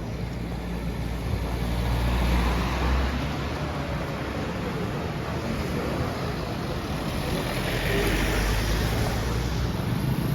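Street traffic: vehicles passing on a wet road, tyres hissing over an engine rumble, swelling twice, about two and eight seconds in.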